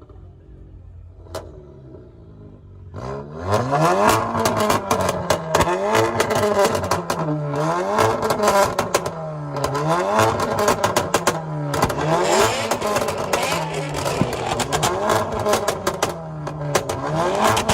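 A modified car's engine is revved again and again. Its pitch climbs and falls back about every one and a half seconds, with sharp crackles from the exhaust throughout. The revving starts about three seconds in, after a quieter stretch.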